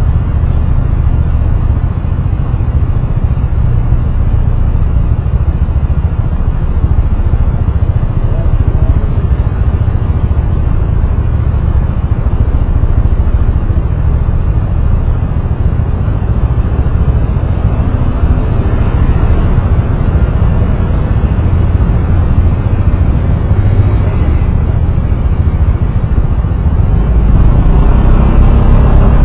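Vehicle driving along a road: a steady low rumble of engine and road noise, growing louder near the end.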